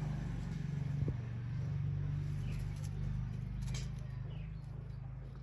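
Kitten purring steadily, a low rapid pulsing hum that swells and eases slightly, with a single click about a second in.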